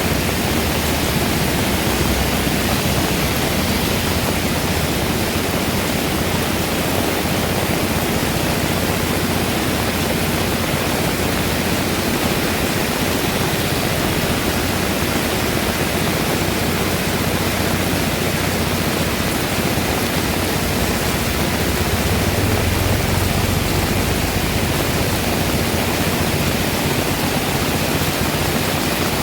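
Heavy rain pouring steadily, a dense even hiss. A deeper low rumble swells for a couple of seconds about three-quarters of the way through.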